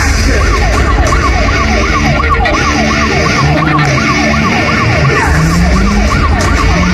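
Siren in a fast yelp, its pitch sweeping up and down about three to four times a second, over a loud low rumble.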